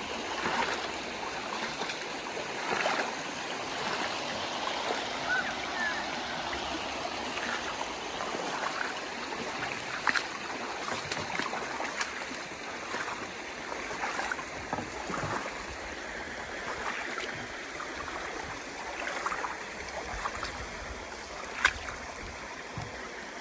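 Rushing stream water, a steady hiss, with a few sharp knocks here and there, the loudest near the end.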